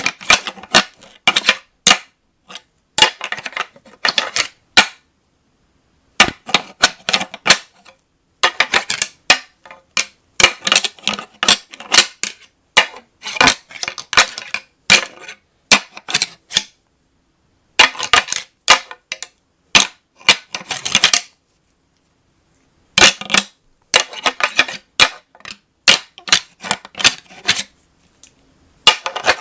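A pair of real whitetail deer antlers clashed and ground together in bursts of rapid, rattling clacks, with brief silent pauses between sequences. This is antler rattling that mimics two bucks fighting, used to call in bucks.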